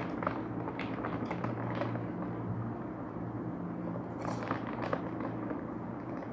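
Crunchy puffed corn snack being chewed, with irregular crisp crunches over a steady low hum.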